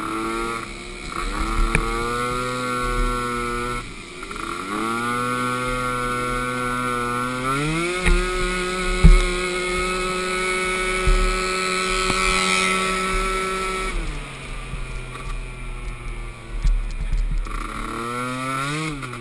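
Small youth ATV engine running under throttle, its revs climbing and falling back several times. About eight seconds in it jumps to a higher, steady pitch, holds for about six seconds, then drops away.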